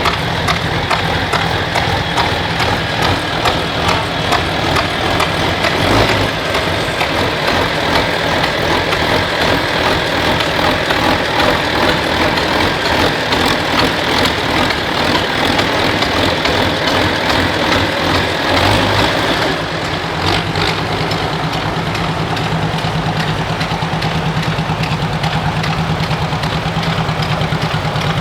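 An engine running steadily. About two-thirds of the way through its sound changes: the higher-pitched noise drops away and a low, even pulsing comes forward.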